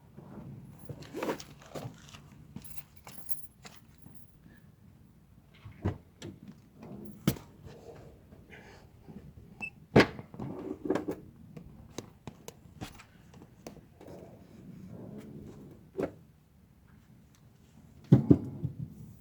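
Scattered knocks, clicks and light rattles of hands working with tools and car parts, with sharper knocks about ten seconds in and a cluster near the end.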